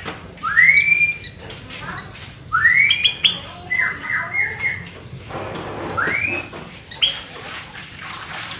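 Sooty-headed bulbul (kutilang) singing: loud, rising whistled notes, with a quick run of four or five short notes about four seconds in.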